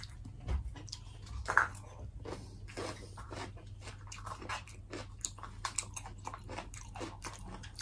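A person chewing and crunching a mouthful of food, with many small crisp crackles scattered throughout.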